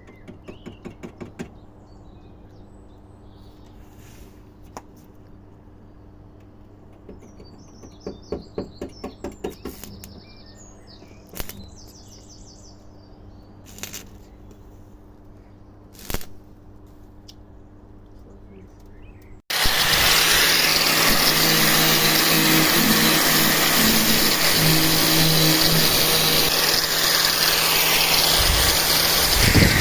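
A steady low hum with scattered light ticks, a few single knocks and some faint chirps. About two-thirds of the way through, a loud, steady hissing noise starts abruptly and keeps going.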